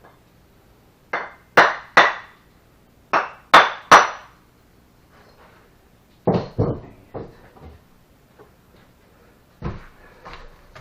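Sharp knocks of a tool striking brick during bricklaying. Two quick runs of three loud strokes come in the first four seconds, then a cluster of duller, lower knocks about six seconds in, and one more near the end.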